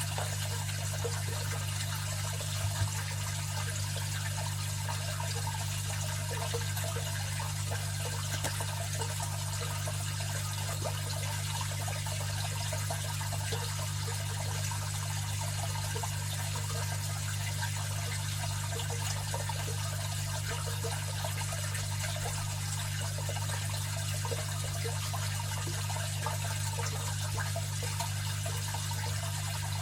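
Aquarium filter running: water trickling and bubbling steadily, over a constant low hum.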